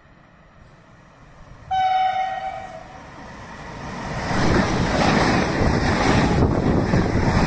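A train horn gives one blast of about a second, the driver's greeting to trackside watchers; then the passing train's rushing rumble builds and stays loud.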